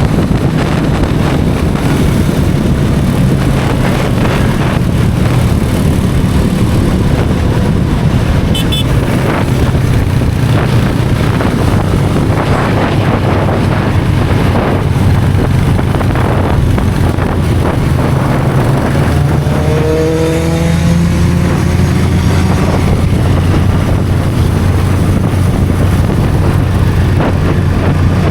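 Sport motorcycle engine running at a steady cruise, with a low, even engine note and wind rushing over the microphone. A brief, slightly rising tone sounds about two-thirds of the way through.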